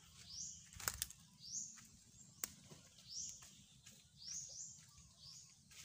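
Faint high bird chirps, repeated every second or so, with a couple of sharp clicks about a second in and another partway through.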